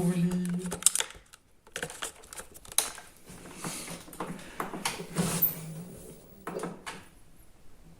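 Irregular series of sharp clicks and taps over a low hum that comes and goes.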